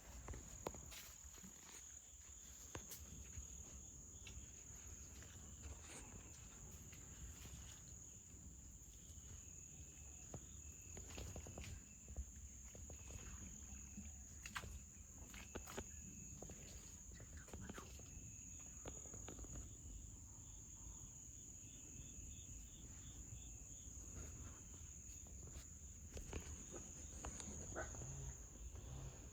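Insects chirring steadily in one unbroken high-pitched tone, with scattered faint clicks and rustles over a low rumble.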